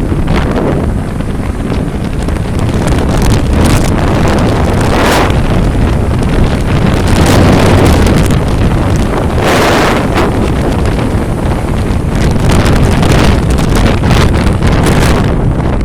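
Loud wind buffeting the microphone: a heavy low rumble with uneven gusts throughout.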